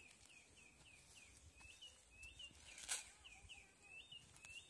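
Faint bird chirping, a quick run of short repeated calls, two or three a second, with a single sharp knock about three seconds in.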